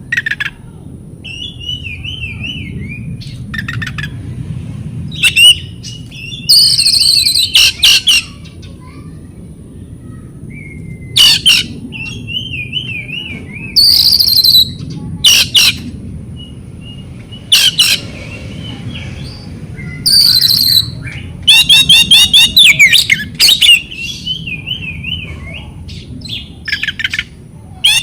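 Oriental magpie-robin (kacer) singing loud, varied phrases: wavering whistles, sharp high notes and bursts of rapid trills, repeated every second or two, the busiest stretch a little past the middle. A low steady rumble runs underneath.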